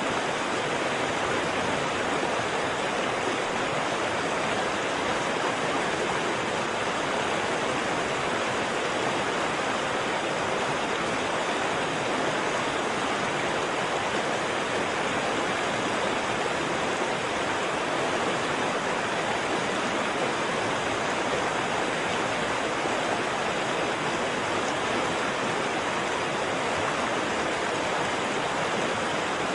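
Waterfall: a steady, unbroken rush of falling water, strongest in the middle and upper range and with no separate splashes.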